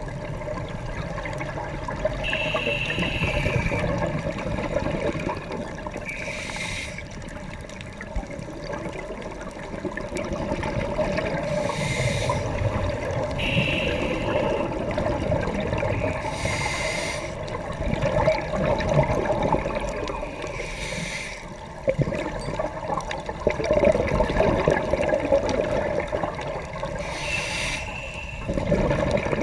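Scuba diver breathing through a regulator underwater: short hissing inhalations every few seconds, some with a thin whistle, between bubbly rumbling exhalations.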